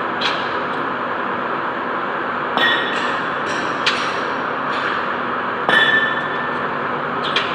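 Automatic kebab-skin (tortilla) machine running with a steady noise, broken by about six sharp metallic clinks that ring briefly.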